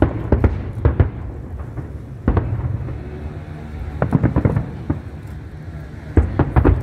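Aerial firework shells bursting one after another: sharp bangs over a continuous low rumble, with quick clusters of bangs about four seconds in and near the end.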